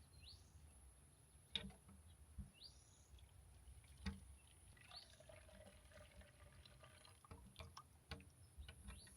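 Faint water pouring and dripping while dishes are washed, with a few light clicks and knocks: one about a second and a half in, one about four seconds in, and several near the end.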